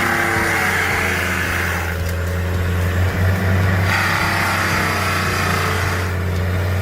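Heavy machine's engine running steadily with a deep drone, with a hiss that rises in the first two seconds and again about four seconds in.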